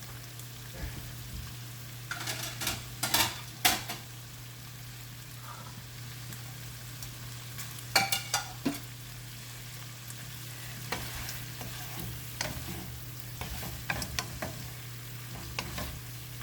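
A metal spatula scraping and clinking against a wok as crispy fried catfish in a dry red curry sauce is scooped out, in several short runs of strokes, over a faint steady sizzle and a low hum.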